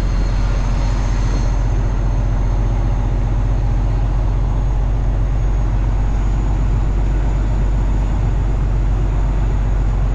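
Semi truck's diesel engine and road noise inside the cab while driving: a steady low drone.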